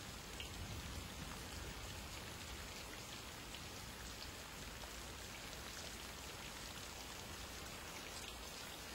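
Steady rain falling during a thunderstorm, an even hiss with scattered drops ticking close by.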